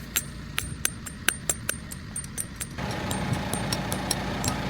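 A run of sharp, irregular clicks and knocks. About three seconds in, a steady mechanical hum starts up under them.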